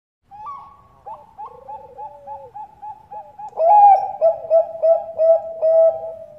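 Bangkok-type zebra dove (perkutut) singing its rapid staccato cooing song: a run of short coo notes, about three a second, quieter at first and much louder from just past halfway, closing on a longer held note.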